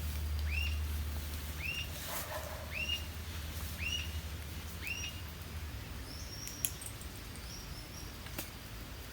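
A bird calling outdoors: a string of short arched notes, each sliding up and falling back, about one a second, five times, then a couple of higher, thinner whistles. A low steady hum underneath stops about six seconds in.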